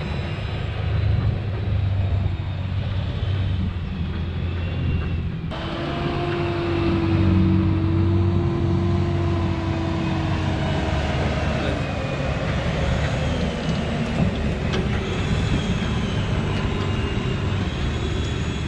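Sherp 10x10 amphibious all-terrain vehicle's diesel engine running while under way, with a wavering whine above it. The sound changes abruptly about five and a half seconds in.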